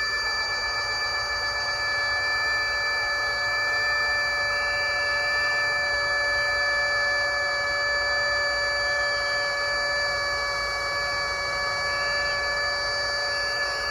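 Electric air pump inflating a truck bed air mattress, running with a steady, unchanging whine.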